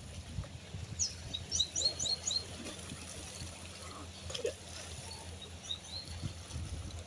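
A bird calling: a quick run of about six short, high chirps about a second in, and two more near the end, over a steady low rumble.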